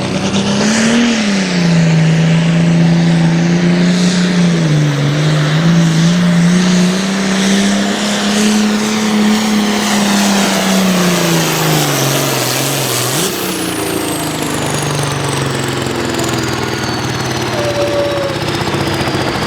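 Turbocharged diesel engine of an altered farm pulling tractor running flat out under load as it drags the sled, its pitch wavering up and down as the revs rise and sag. About thirteen seconds in the engine note drops as the throttle comes off, and a high whistle winds steadily down as the turbo spins down.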